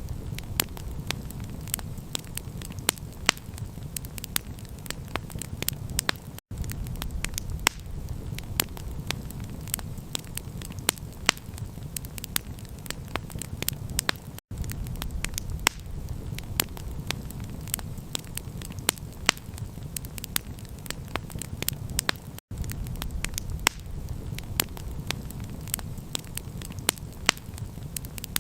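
Campfire crackling, with frequent sharp pops over a steady low rumble. The sound cuts out for an instant about every eight seconds, like the seams of a looped recording.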